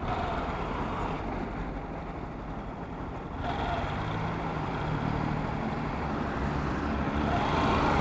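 Motor vehicle engine running with road noise. It gets louder about three and a half seconds in and again near the end.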